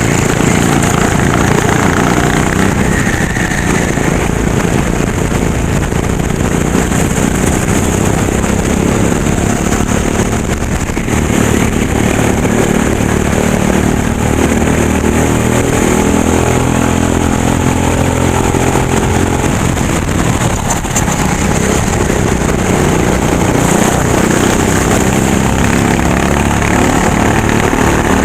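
Racing kart engine running hard, its pitch rising and falling as it speeds up and slows again.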